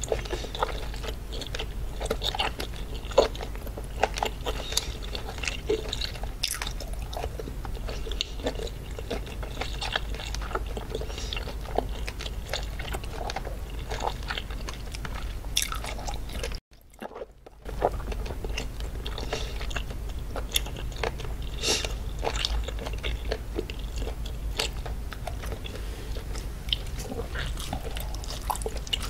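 Close-miked chewing of raw seafood: many sharp, wet mouth clicks and crunches over a low steady hum, with a break of about a second past the middle.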